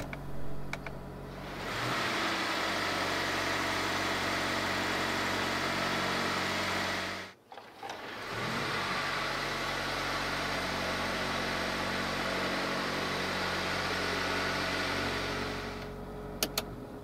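Mercedes-Benz C300 four-cylinder petrol engine idling steadily just after starting, with a steady hiss over it. The sound breaks off for about a second partway through, then resumes and fades near the end, with a couple of clicks.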